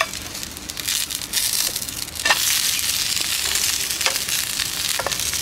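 Sweet-corn fritter sizzling in hot oil in a frying pan, a steady hiss with a few sharp crackles, the loudest about two seconds in.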